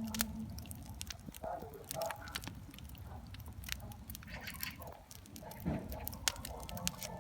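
Wood campfire crackling, with many sharp irregular pops and snaps over a low rumble of burning.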